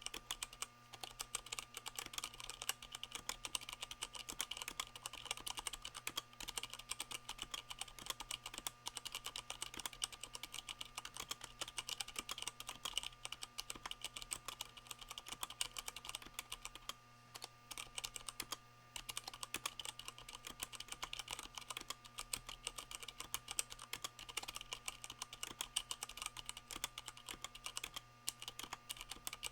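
Continuous fast typing on a Leopold FC660M mechanical keyboard with Cherry MX Brown switches, its keycaps fitted with O-rings that cushion the bottom-out, the board resting on a microfiber towel to keep out desk noise. A rapid, steady stream of key clacks, with brief pauses a little past halfway and near the end.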